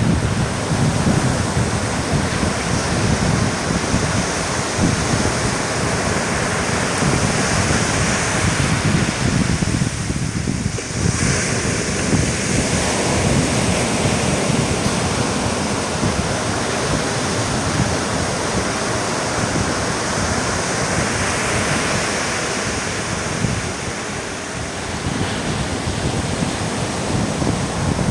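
Steady rush of surf on a beach, with wind buffeting the microphone; a short lull about ten seconds in.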